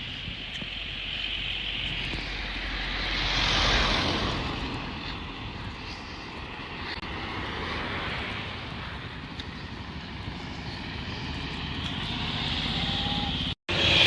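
Motor vehicles passing along a road, their engine and tyre noise swelling and fading: one passes about four seconds in, another around eight seconds, and a third approaches near the end. The sound cuts out for an instant just before the end.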